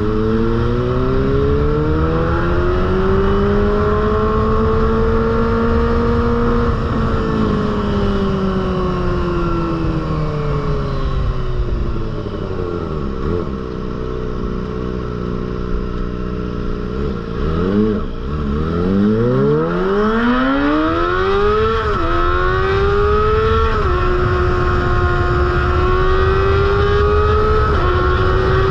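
Kawasaki ZX-25R's 249 cc inline-four running through an aftermarket Proliner exhaust. The engine note climbs over the first several seconds, falls back to a low note around the middle, then climbs steeply again. It finishes with a couple of quick drops in pitch and a steadier note.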